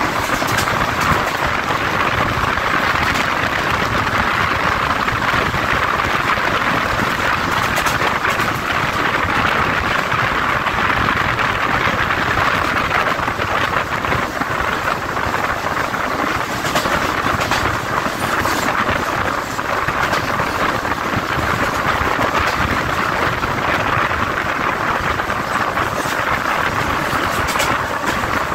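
Mumbai suburban electric local train running along the track, heard from on board: a steady rushing of wheels on rail and passing air, with occasional faint clicks.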